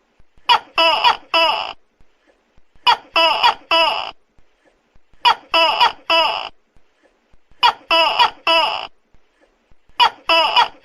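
Tokay gecko calling loudly: groups of three sharp calls, repeated evenly about every two and a half seconds, five groups in all.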